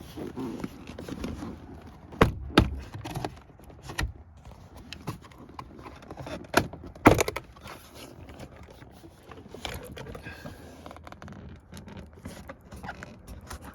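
Plastic retaining clips of a 2015 Subaru Outback's rear door trim panel snapping loose one after another as the panel is pried away from the door, with rubbing and scraping of the trim in between. The loudest snaps come about two seconds in and about seven seconds in.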